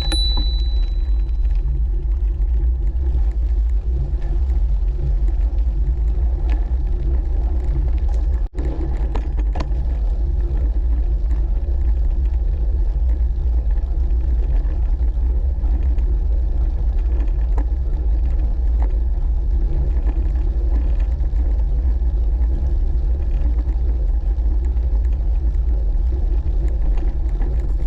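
Steady low rumble of wind on the microphone and tyres on the towpath while riding a Brompton folding bicycle, breaking off for an instant about eight and a half seconds in.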